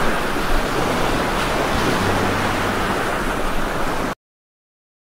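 Heavy rain pouring steadily, a dense, even hiss with no let-up. It cuts off suddenly about four seconds in.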